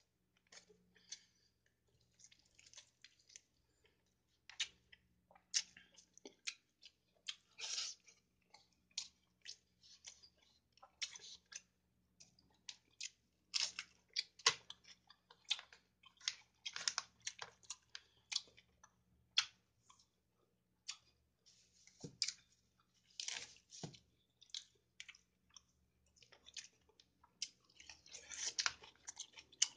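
Close-up chewing and eating sounds of someone eating chicken biryani with their hand: irregular wet smacks and small crunches throughout, over a steady low hum.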